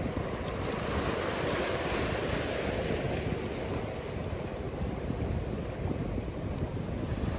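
Ocean surf: a steady wash of breaking waves, with wind rumbling on the microphone.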